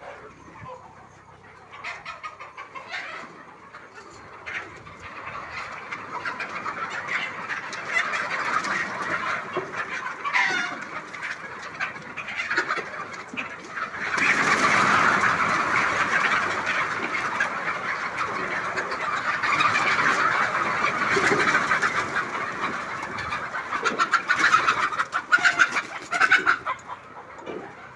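A flock of Sonali chickens clucking and calling all together. The noise swells partway through and stays dense, with louder bursts near the end.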